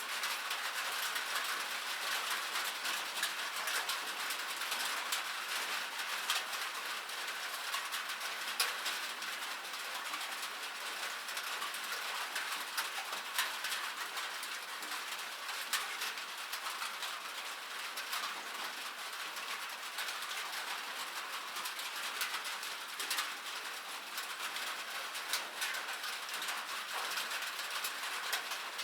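Rain pattering on a metal surface: a dense, steady patter of small drops with louder single drips standing out now and then.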